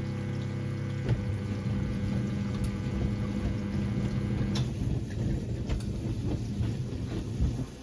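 1978 Siemens WA4600 front-loading washing machine mid-wash: its motor hums steadily as the drum turns the wet load, with water sloshing. About halfway in the hum stops with a click and the churning, sloshing noise carries on, then falls away near the end.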